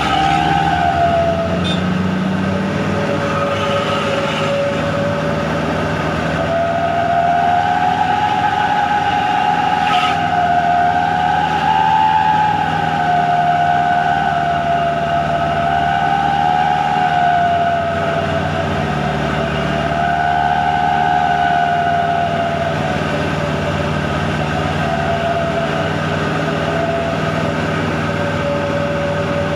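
Wolf-howl exhaust whistle on a Hino Dutro truck giving a continuous howl whose pitch rises and falls every few seconds, over the truck's engine running steadily.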